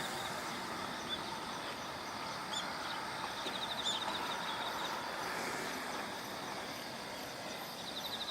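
Steady outdoor rushing noise, with a few short high chirps and a rapid high trill about three and a half seconds in, and another near the end.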